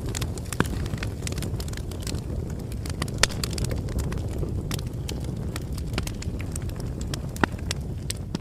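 Bonfire burning: a steady low rumble of flames with wood crackling and popping irregularly, a few louder pops among the small ones.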